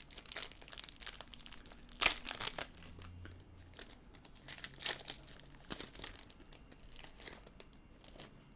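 Wrapper of a Topps Opening Day baseball card pack being torn open and crinkled by hand: irregular crackling rustles, the loudest about two seconds in.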